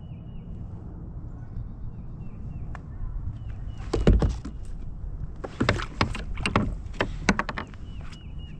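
Wind buffeting the microphone in a low steady rumble, with a run of sharp knocks and clatter on a plastic fishing kayak from about four to seven seconds in, the loudest first.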